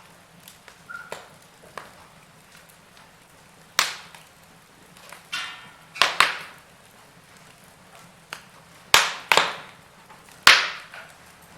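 Wood fire crackling in a fireplace: irregular sharp pops over a faint steady background, the loudest coming in quick pairs about six and nine seconds in, with a single loud pop near the end.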